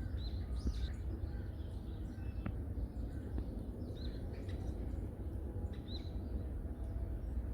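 Small forest birds calling: short, high, hooked chirps come every second or two over a steady low rumble.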